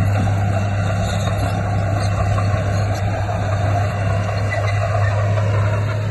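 Diesel engine of a Komatsu D58P bulldozer running steadily under load, a deep, even hum.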